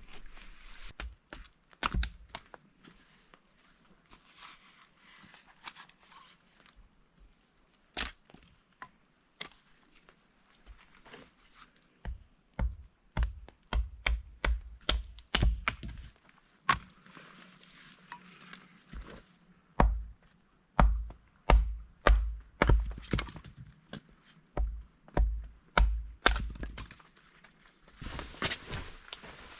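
Firewood being chopped: a series of sharp chopping knocks, each with a low thump, spaced out at first and then coming in quick runs of two or three blows a second.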